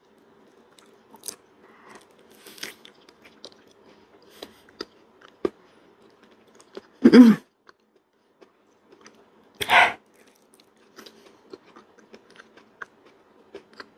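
Mouth sounds of a person eating soft durian flesh: quiet wet chewing and small lip smacks and clicks. Two louder, short throat or breath sounds come about seven and ten seconds in.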